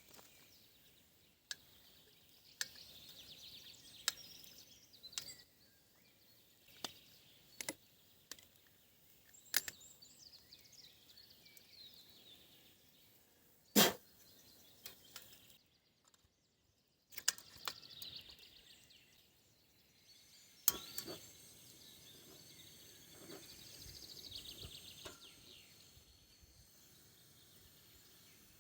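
Scattered sharp clicks and knocks from handling things at camp, the loudest about fourteen seconds in, over quiet outdoor ambience with faint bird chirps.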